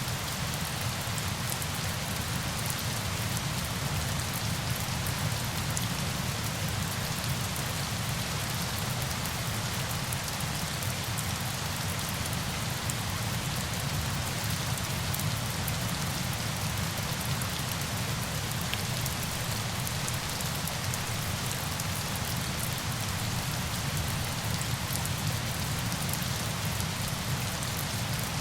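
Steady, even hiss of falling water, like rain, with fine scattered droplet ticks throughout.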